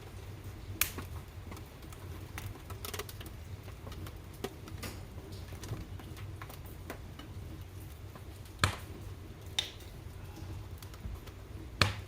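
Wood fire crackling in a fireplace, with irregular sharp pops every second or two, the loudest near the end, over a low steady rumble.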